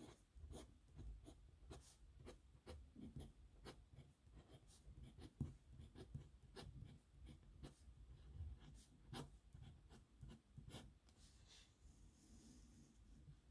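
Pen writing on paper: faint, irregular scratching strokes and small ticks as the pen touches down and lifts, several a second.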